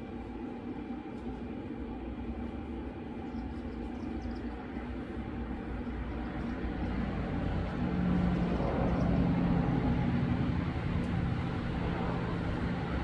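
Steady low mechanical hum, growing louder about seven seconds in.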